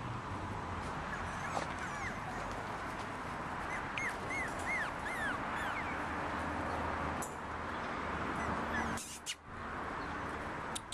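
Papillon puppies whimpering, with a quick run of short high yelps about four seconds in, over a steady hiss.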